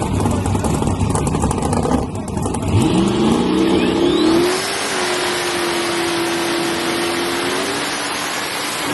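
S10 drag-race truck engine rumbling, then revving up sharply about three seconds in and holding a steady high rpm, with a loud hiss over it until near the end.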